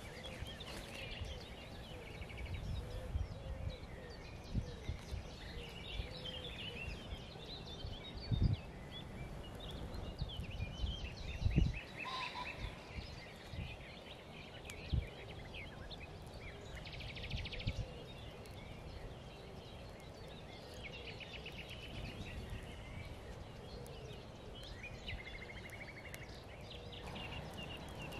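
Woodland birds singing and calling, with short chirps and trills. A few dull thumps sound close by, the loudest about a third of the way in.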